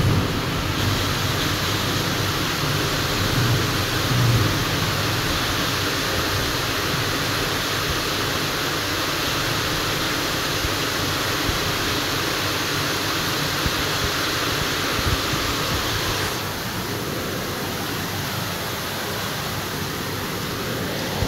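Heavy rain falling during a thunderstorm, a steady hiss, with a low rumble in the first four seconds or so. The hiss drops somewhat about sixteen seconds in.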